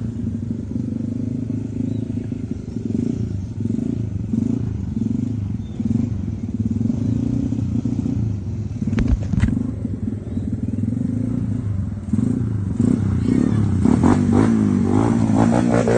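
Dirt bike engine running with the throttle opening and closing in pulses, with two sharp knocks about nine seconds in. Near the end the revs climb higher.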